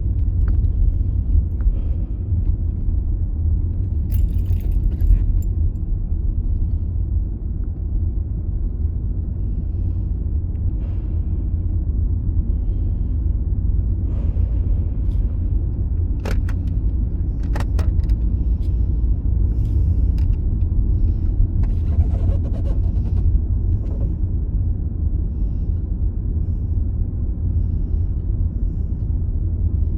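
Steady low rumble of a Holden Commodore, its engine and road noise droning at an even level, with a few faint clicks and rattles.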